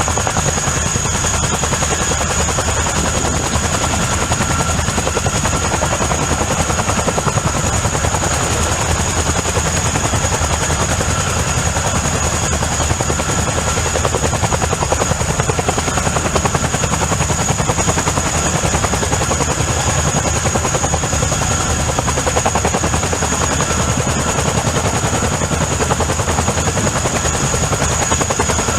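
Boeing CH-47 Chinook tandem-rotor helicopter running steadily: a fast, even rotor chop under a high, steady turbine whine.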